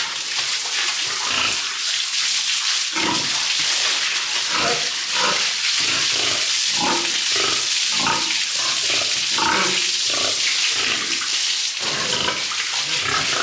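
Pigs grunting again and again over a steady hiss of spraying water, as the pigs and their sty are washed down.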